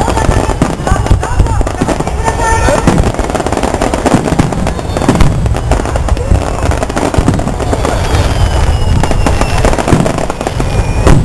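Aerial fireworks bursting in rapid succession with dense crackling over a continuous low rumble, with crowd voices underneath. A faint falling whistle sounds near the end.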